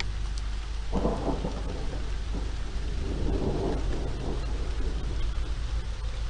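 Steady rain with thunder: a sudden clap about a second in, then a second rumble around three to four seconds.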